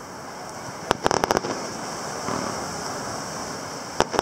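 Distant fireworks display: a rapid string of sharp cracks about a second in, and another string starting near the end, over steady background noise.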